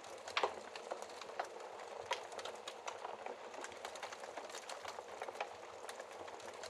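Wood logs burning in a fireplace, crackling with many irregular sharp pops, the loudest about half a second in, over a steady hiss of rain.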